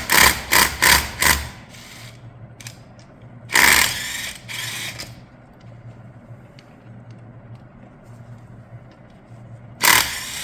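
Power tool driven in short trigger bursts while backing out transmission bolts: a quick run of about five pulses, then a longer run a few seconds later and another near the end. Between bursts there is a faint steady hum.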